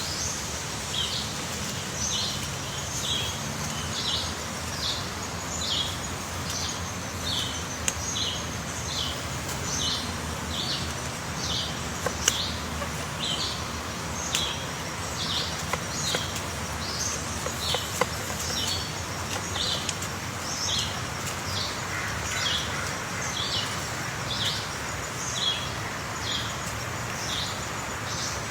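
A bird giving short, high chirps over and over at an even pace, about one and a half a second, over a steady background hiss.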